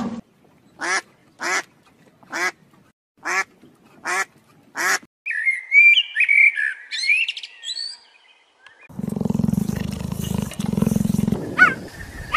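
Seven short, evenly spaced animal calls, then a male common blackbird singing a warbling phrase. After that, a low rumbling purr with a short break, and a couple of high sweeping chirps, as from a cheetah.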